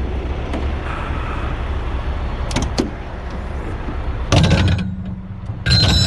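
Heavy truck engine idling with a steady low rumble. Two loud bangs come about four and six seconds in, the second leaving a brief metallic ring, as of recovery gear being stowed.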